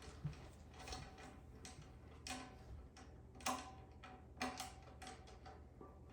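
Irregular light clicks and taps from banjo parts being handled and fitted during assembly, a few of them followed by a brief faint ring.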